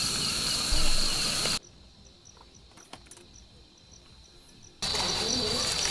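Insect chorus: a steady high-pitched trill with faint regular chirps. It drops away suddenly about a second and a half in, leaving only fainter chirps, and returns just as suddenly about three seconds later.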